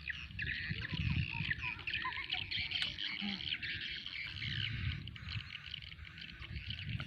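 Outdoor wildlife chorus: many overlapping high chirps over a low, uneven rumble.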